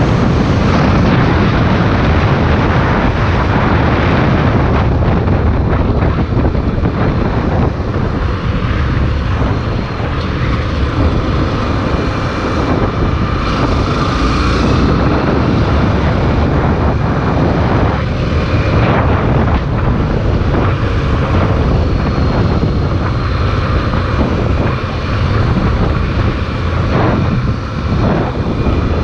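Honda XR 250 Tornado single-cylinder motorcycle being ridden, its engine running continuously under a loud, steady rush of riding noise.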